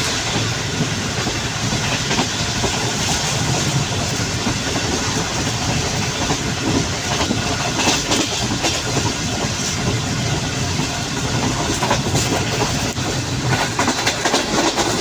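Passenger train running along the track, its wheels clattering over the rail joints under a steady rumble, with more clatter near the end.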